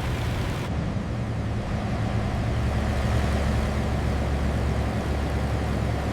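Propeller aircraft droning steadily, the low hum of the B-17's four radial engines under a hiss of wind noise. The high hiss drops away about a second in while the drone carries on.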